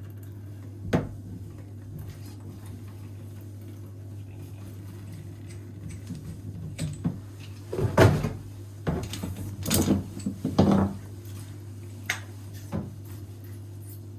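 A few knocks and clunks of hands and tools working on a bathtub faucet fitting, loudest in a cluster about two thirds of the way through, over a steady low hum.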